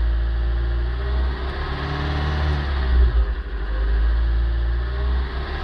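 Kia Pride's B3 four-cylinder engine held at around 2000 rpm, its pitch wavering. About three seconds in it stumbles unevenly, then picks back up. This is the intermittent cough at around 2000 rpm that shows up when the engine is just warm, a fault the owner has not yet traced.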